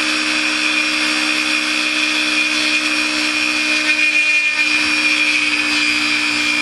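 Small high-speed rotary tool (Dremel) running steadily with a whine, eating away the plastic deck of a 1/144-scale model kit.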